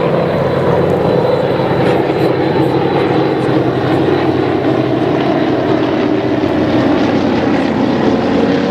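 Propeller airplane engine running steadily and loudly, its drone wavering slightly in pitch in the second half.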